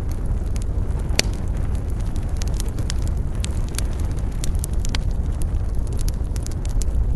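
Wood fire crackling in a fireplace: frequent sharp pops and snaps over a steady low rumble, with one louder pop about a second in.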